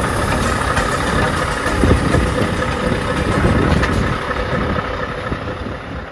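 Scania crane truck's diesel engine running steadily, dying away near the end.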